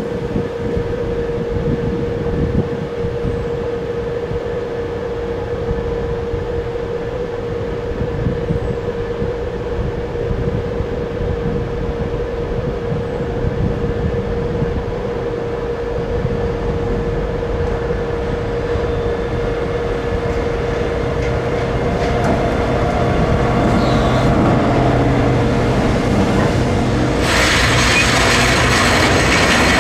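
Freight train approaching on the rails with a steady tone over a rumble that slowly grows louder. Near the end the long line of hopper wagons rolls past close by, with loud rushing wheel-on-rail noise.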